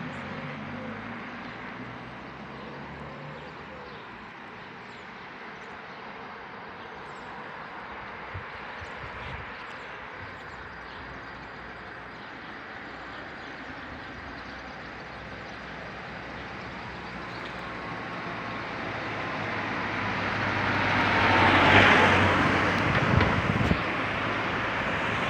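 Steady outdoor background noise, then a vehicle passing that grows louder over several seconds and peaks near the end before easing off a little.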